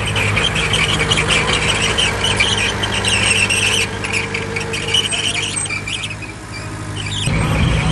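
Bulldozer working: a steady diesel engine under an uneven, high-pitched squealing and screeching from the machine's steel tracks, easing off a little after six seconds before the engine gets louder again near the end.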